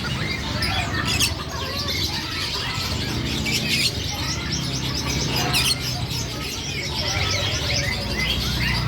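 A group of small red-billed finches chirping busily, with many quick, high, short calls, over a steady low hum. There are a few louder, short flutters about one, four and five and a half seconds in.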